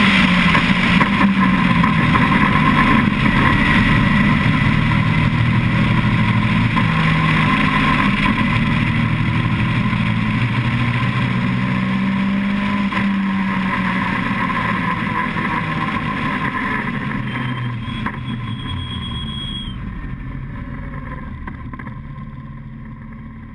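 Caterham Seven's 2.1-litre dry-sumped four-cylinder engine running, heard from the open cockpit with wind rush, its pitch wavering slightly up and down. The sound fades out over the last few seconds.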